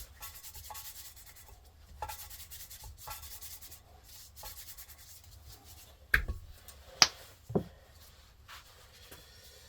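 Rubbing strokes by hand, roughly one a second, then three sharp knocks a little past the middle, which are the loudest sounds.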